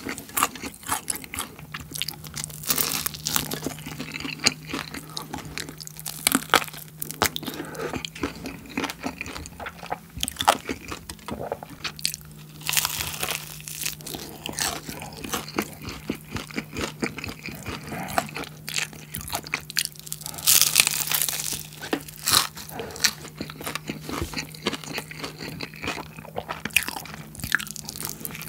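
Close-up crunching and chewing of bhc Bburinkle fried chicken coated in cheese seasoning powder: repeated crisp bites and crunches through the whole stretch.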